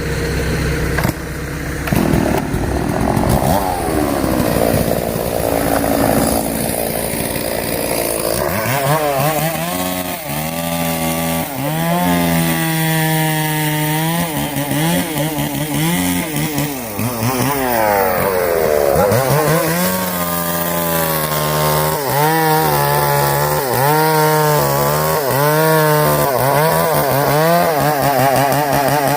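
Chainsaw running and cutting wood. Its engine note keeps dropping and picking up again as the chain bites.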